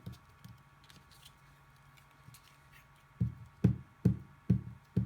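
Dull knocks on a tabletop as a glued paper piece is pressed down onto cardboard by hand: five low thumps about two a second, starting a little after three seconds in.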